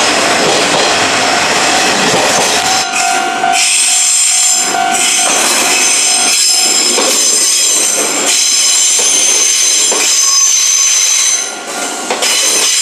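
Electric trains passing close by: first a rushing run of wheel and body noise, then, after about three seconds, an Izuhakone Railway 3000-series train going by with its wheels squealing in several high, steady tones as it rounds a curve.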